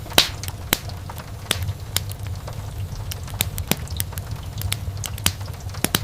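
Wood fire burning in a fireplace: irregular sharp crackles and pops over a steady low rumble of flames, with the loudest pop just after the start.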